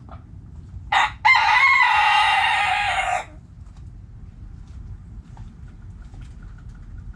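A rooster crowing once, about a second in: a brief opening note, then a long held call of about two seconds that cuts off.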